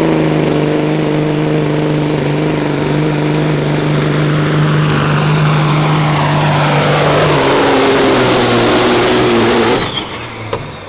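Diesel semi truck pulling the sled at full throttle, its engine running loud with a steady high whistle over it. The engine note sinks in the second half as the load drags it down, then cuts off sharply near the end when the pull ends.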